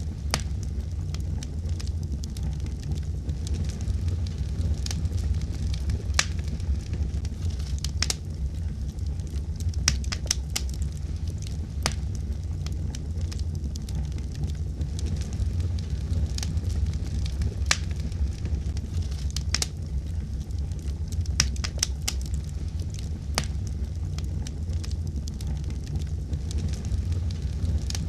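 Fire burning in a fireplace: irregular sharp crackles and pops, a few every couple of seconds, over a steady low rumble.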